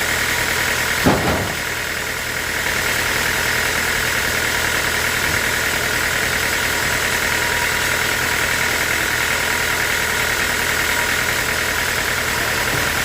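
Sawmill machinery running steadily, with one sharp knock about a second in.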